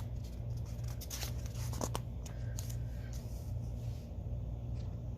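Paper rustling and light handling noises from the pages of a book, over a steady low hum.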